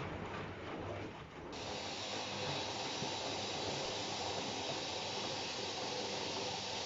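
Washing machine with some faint mechanical clicking, then, about a second and a half in, a sudden steady hiss of water rushing in or spraying into the drum that keeps going.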